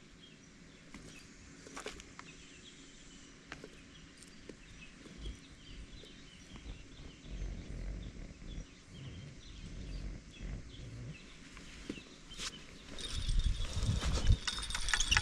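Quiet outdoor ambience with faint, scattered bird chirps and a few small clicks. Near the end, louder rustling and bumping close to the microphone.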